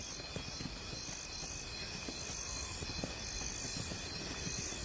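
Night insects chirping: a high pulsing chirp about twice a second over a steady high drone, with a low rumble and faint ticks underneath.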